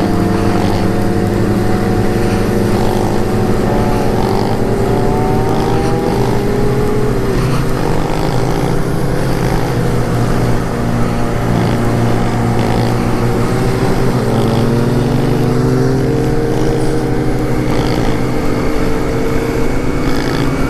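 Motorcycle engine running under way, its pitch rising and falling with the throttle, over steady wind noise on the microphone.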